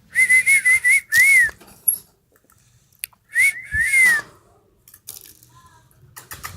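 Whistling: two runs of short, clear notes that rise and fall, the second run about two seconds after the first.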